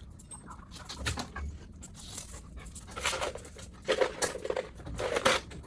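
Rapid breathy panting in three bursts about a second apart, over scattered light clicks.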